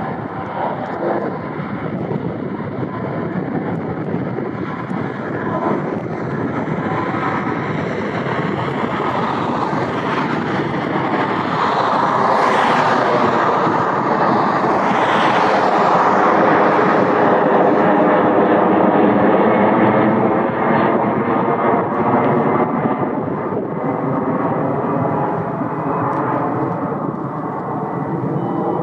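Jet airliner engines passing close by, the noise swelling to its loudest around the middle with a shifting, phasing sweep, then easing off toward the end.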